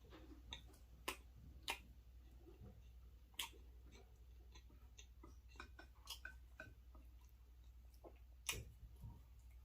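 Quiet eating sounds: mouth clicks and smacks while chewing creamy alfredo pasta, with a few scattered sharp clicks.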